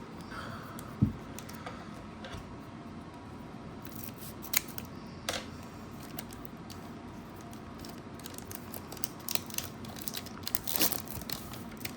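Foil Pokémon booster pack wrapper being torn open and handled, with scattered crinkles and crackles that bunch up near the end. A single low thump about a second in is the loudest sound.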